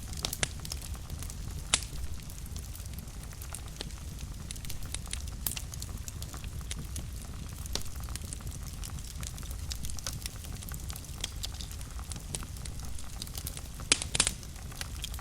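Wood fire burning in a fireplace, a steady low rumble of flames with frequent small crackles and sharp pops. The loudest pops come about two seconds in and in a quick cluster near the end.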